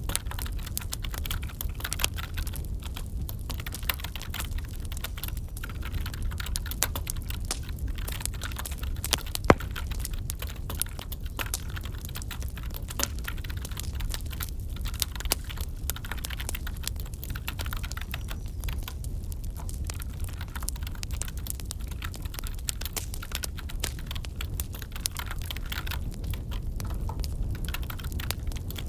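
Continuous computer-keyboard typing over a crackling wood fire with a steady low rumble. One sharp crack stands out about nine and a half seconds in.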